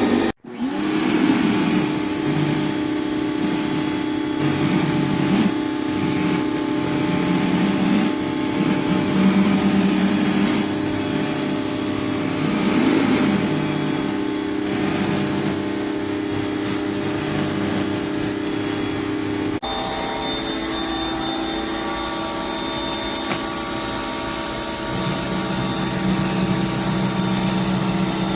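Electric pressure washer running with water spraying through a rotary surface cleaner: a steady motor-pump hum under a hiss of spray. The sound changes abruptly about 20 seconds in.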